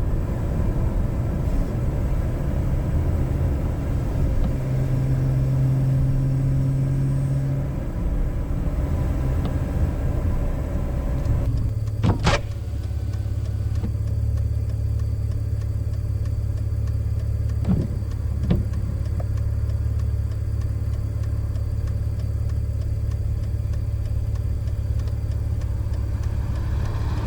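BMW E46 inline-six engine heard through its K&N cold-air intake while driving, running at light load for about ten seconds, then settling into a steady, even low drone. A sharp click comes at about the change, and two fainter clicks follow a few seconds later.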